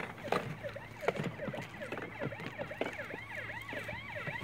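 Electronic toy police siren from a Power Wheels Chevrolet Silverado police truck: a fast, repeating up-and-down warble, with a few scattered knocks.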